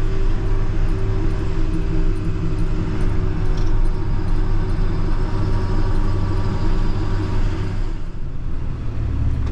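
Salt truck's engine and tyre noise while driving, a steady low drone that eases a little about eight seconds in.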